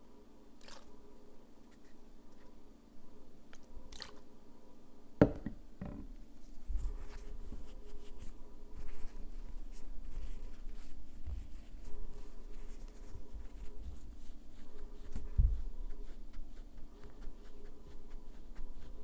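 Close-up manicure handling sounds: light scratching and small taps of nail tools and hands, with a sharp click about five seconds in, a second just after, and a dull knock near the end.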